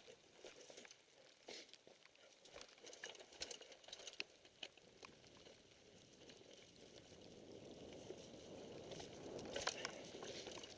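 Faint, irregular ticks and patter from a mountain bike descending a rain-soaked trail, with wet rain noise. A rough rustling noise grows over the last few seconds.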